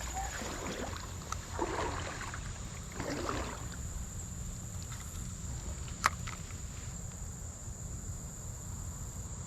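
Creek water splashing and sloshing in two short bursts, under a steady high-pitched insect drone. A single sharp click comes about six seconds in.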